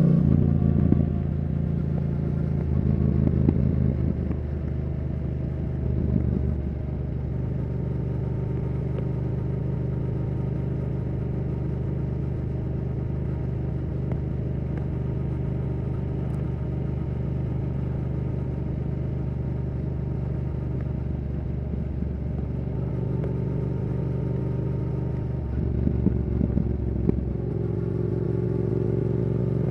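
Yamaha R7's CP2 parallel-twin engine through a Yoshimura R77 exhaust. It drops in engine speed in the first second, then holds a steady low note for most of the stretch. Near the end the pitch climbs as it accelerates.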